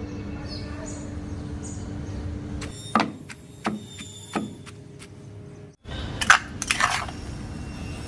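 Pestle knocking and grinding chutney in a stone mortar: three sharp knocks about two-thirds of a second apart, then a cluster of scraping, knocking strokes. A steady hum runs under the first third before it cuts off.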